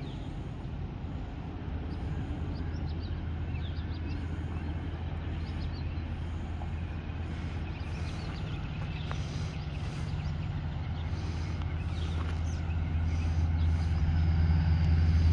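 Diesel passenger train approaching, its locomotive engine a steady low rumble that grows louder, most of all near the end. Faint bird chirps are scattered through it.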